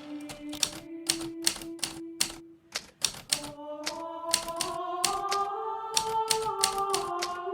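Hermes Baby portable typewriter keys striking in an irregular typing rhythm, about two to three keystrokes a second, over soft background music of held chords that fades out briefly about three seconds in.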